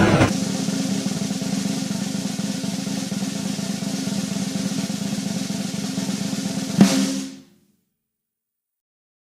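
Music: a rapid snare drum roll over a held low chord, closing with a single sharp hit about seven seconds in and dying away quickly.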